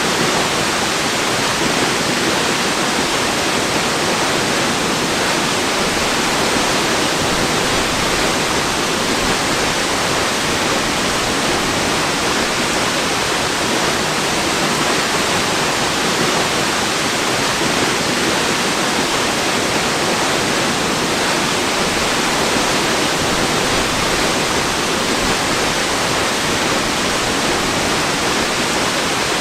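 Waterfall: steady, unchanging noise of falling water, even across the whole range with no separate splashes or other events.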